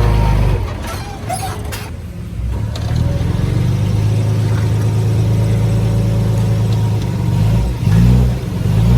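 Diesel engine of heavy earthmoving machinery running, with a few sharp clanks about a second in while the engine drops back. It then runs steadily and revs up briefly near the end.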